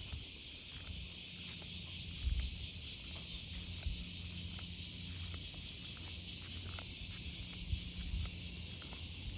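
A steady chorus of insects chirring, a dense high shimmer with a fine pulse, over a faint low hum and occasional low rumbles. It stops abruptly at the end.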